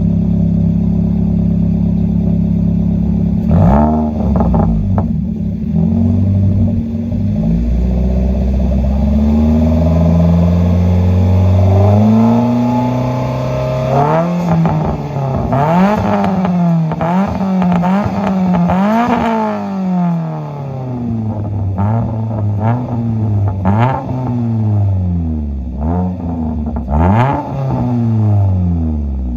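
Nissan March K12 12SR's 1.2-litre four-cylinder engine free-revving through an aftermarket exhaust with a 5Zigen Super Rap rear muffler. It idles steadily, blips once a few seconds in, climbs slowly and holds higher revs, then from about halfway through is blipped repeatedly, about ten sharp rises and falls in pitch.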